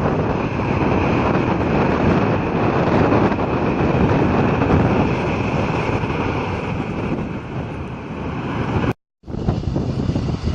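Jet airliner engines running with a faint high whine that fades away, and wind buffeting the microphone. The sound drops out completely for a moment about nine seconds in.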